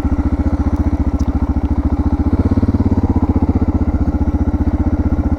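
Suzuki DR650's air-cooled single-cylinder engine running at low revs, its firing pulses steady and even, picking up slightly about halfway through.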